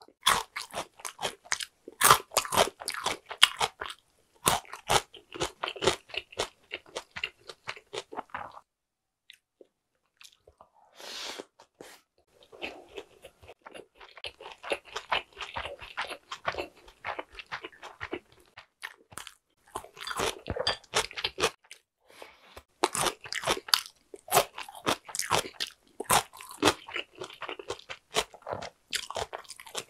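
Close-miked chewing of nigiri sushi: wet, crunchy mouth sounds in dense spells of clicks and smacks, with a short pause about nine seconds in before the chewing picks up again.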